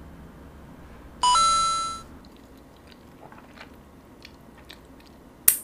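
Faint chewing and small mouth clicks from someone eating jjajangmyeon noodles as quietly as possible. About a second in, a loud two-note electronic chime, lower then higher, rings and fades. Near the end there is one short sharp click.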